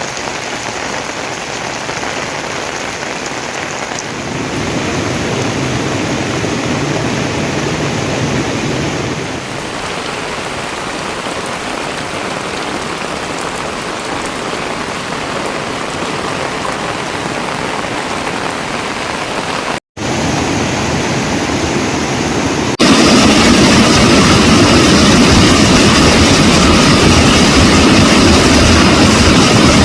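Steady heavy rain falling. Near the end it cuts to a much louder, steady rushing noise.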